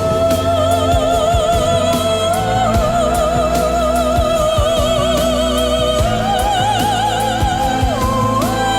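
A singer's wordless vocalise over a pop backing track with a beat: long high notes held with wide vibrato, stepping higher about six seconds in and dipping briefly near the end.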